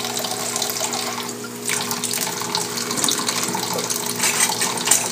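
Kitchen faucet running steadily into a sink, the stream splashing irregularly, with a steady hum underneath.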